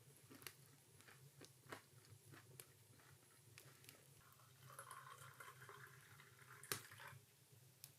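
Near silence in a small room, with scattered faint clicks and taps, a soft hiss about five seconds in, and one sharper tap near the end.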